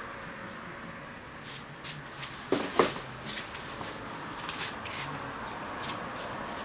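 Handling noises from hard parts being moved and set down: a scattered series of clicks and knocks, two louder knocks close together about two and a half seconds in, over a steady hiss.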